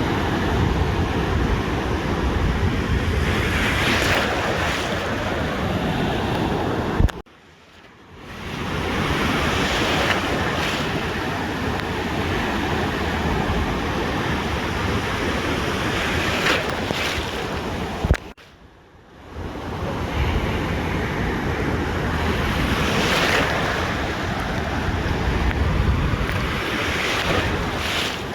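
Ocean surf breaking and washing on a beach, swelling every few seconds, with wind buffeting the microphone. The sound cuts out abruptly twice for about a second.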